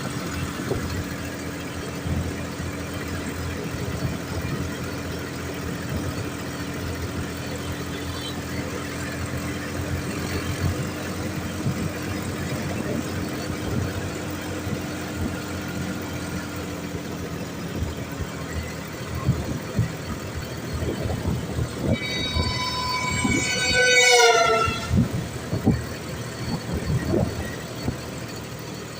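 Sonalika DI 42 RX tractor's diesel engine running on the road with a rotavator attached. Near the end a loud horn sounds for about three seconds, its pitch falling.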